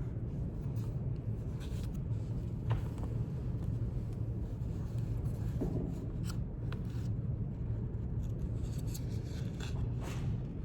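Quiet library room tone: a steady low hum, with a few soft scattered rustles and taps from paper and pen handling.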